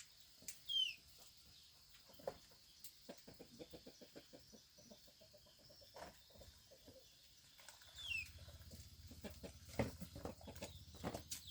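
Chickens calling faintly, with a few short falling high-pitched calls, over soft scattered tapping and clicking.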